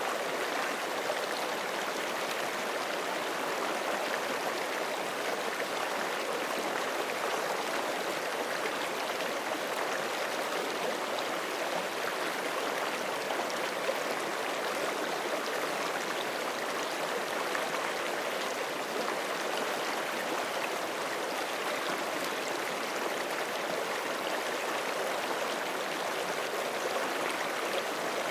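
Forest creek rushing steadily over rocks: continuous running water, strongest in the middle range, with no change throughout.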